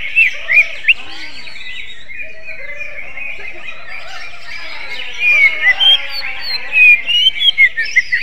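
Cucak ijo (green leafbird) singing, in a song with the phrasing of an oriental magpie-robin (kacer). Quick runs of loud whistled notes come near the start and again through the second half, with a softer twittering warble between them.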